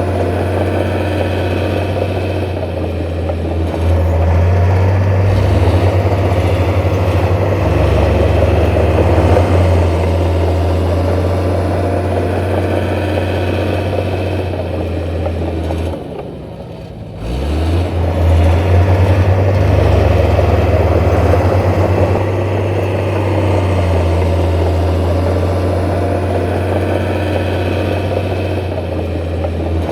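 Heavy diesel construction machine engine running under load, with a strong low hum. It drops away briefly about halfway through, then picks up again with a rising pitch.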